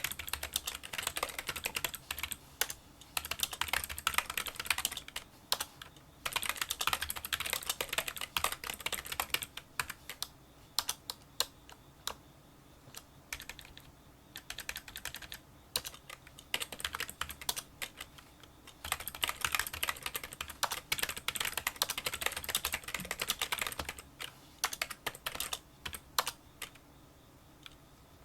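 Touch-typing on a Kinesis Freestyle Solo split keyboard with membrane key switches: fast runs of small, quiet clicks, broken by several pauses of a few seconds.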